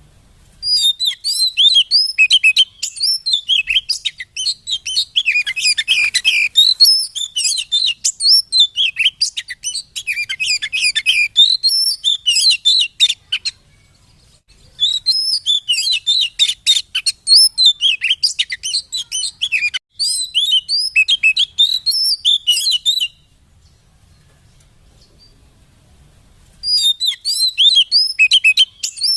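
Oriental magpie-robin (kacer) singing a fast, varied song of short high notes and slurs in long runs, breaking off briefly about fourteen seconds in and again for a few seconds near the end.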